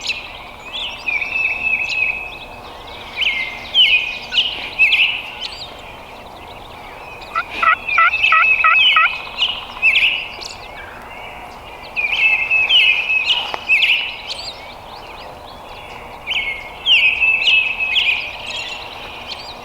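A wild turkey gobbler gobbles once, a fast rattling call about seven and a half seconds in. Small songbirds call repeatedly throughout.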